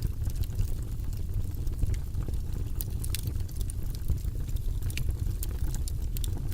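Wood fire burning in a fireplace: a steady low rumble of flames with irregular, sharp crackles and pops throughout.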